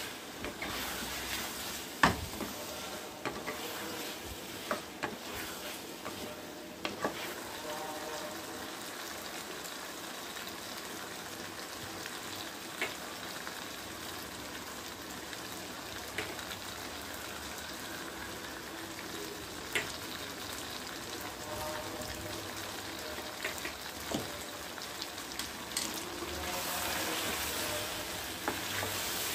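Vegetables and mutton sizzling as they fry in a nonstick kadai, stirred with a wooden spatula. The spatula knocks against the pan now and then, sharpest about two seconds in, and the stirring gets louder near the end.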